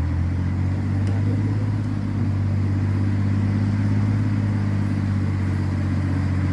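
Truck engine running steadily under load as the loaded truck climbs a steep, muddy slope.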